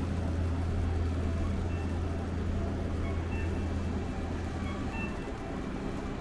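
Steady low engine hum of a nearby vehicle, over the general noise of city street traffic. The hum fades about four to five seconds in.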